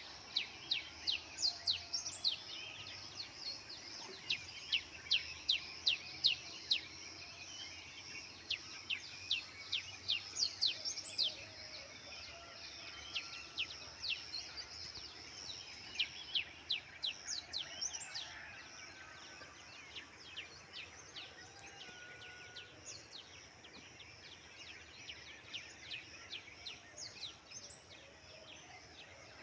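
Small birds chirping busily in rapid, short, sharp calls, several a second, over a steady high background hiss; the chirping thins out after about two-thirds of the way through.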